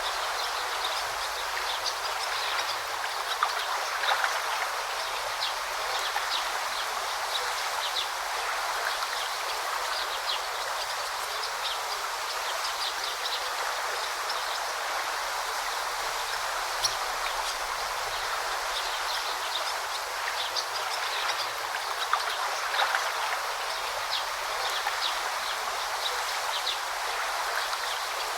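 Forest stream babbling steadily, with short high chirps of birds scattered throughout.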